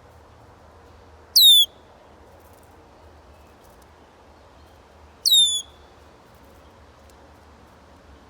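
A songbird giving two identical short, sharp calls about four seconds apart, each sliding quickly down in pitch.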